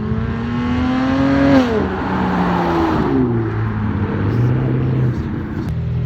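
Car engine revving: the pitch climbs for about a second and a half, then drops sharply, and a shorter fall follows before it settles to a lower, steadier note.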